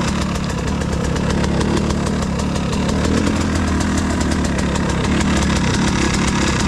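Enduro motorcycle engine running steadily, with no rise or fall in revs.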